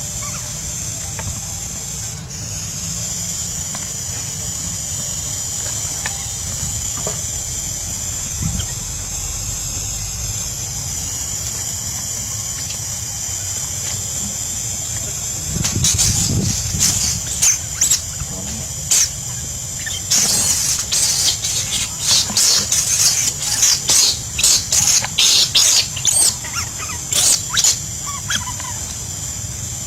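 Shrill squeals from a macaque monkey in short, rapid bursts through the second half, over a steady high-pitched drone.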